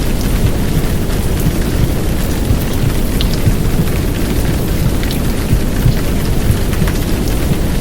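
Steady sound of a heavy downpour, dense hiss with scattered sharp drop ticks, layered over a deep rumbling womb sound of heartbeat and white noise made to soothe a baby to sleep.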